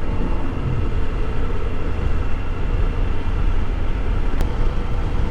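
Motorcycle cruising at a steady speed: a steady engine drone with a quiet stock exhaust, mixed with wind rushing over a helmet-mounted camera.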